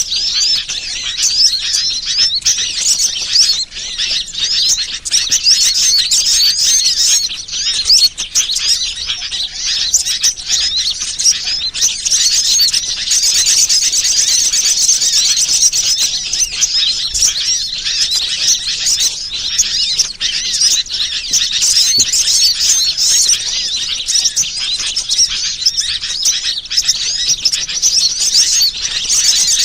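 Bird-lure recording: a dense, continuous chorus of many small birds chirping and twittering, high-pitched and overlapping throughout.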